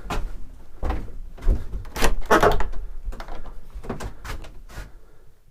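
A door being worked: several knocks and clunks, with a longer scraping creak about two seconds in.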